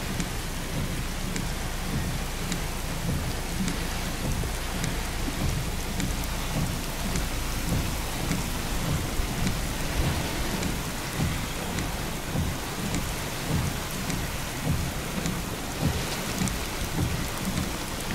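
Steady rain falling, with scattered drops ticking close by, over a constant low rumble.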